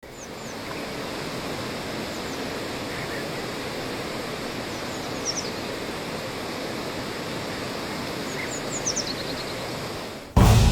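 Steady, even rushing noise with a few short, high chirps here and there. Loud music with deep drum hits cuts in suddenly near the end.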